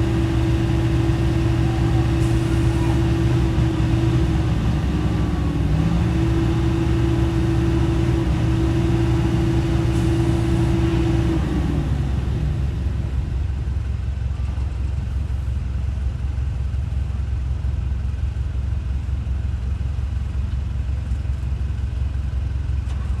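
The diesel engine of heavy earthmoving machinery running steadily with a low hum. About halfway through, its steady tone drops a little in pitch and settles into a broader low rumble.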